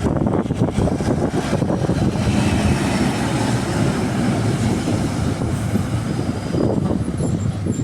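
Heavy truck running, a steady low rumble with a rushing hiss that builds over a few seconds and then fades.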